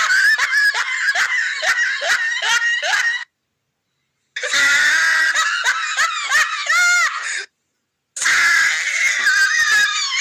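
A shrill, high-pitched laughing sound effect, cackling in quick rhythmic pulses with wavering pitch, played three times with a second of dead silence between plays.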